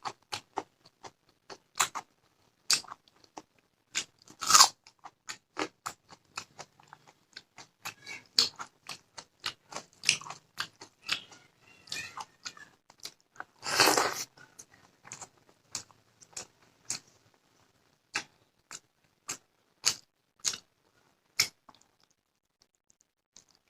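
A person chewing and crunching food close to the microphone, with many quick sharp crunches. Two louder, longer crunching bites come about four seconds in and near the middle, and the chewing thins out near the end.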